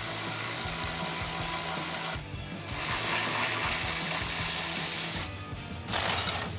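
Electric ratchet whirring in three runs as it backs out the 13 mm rear muffler hanger bolts, with brief stops about two and five seconds in.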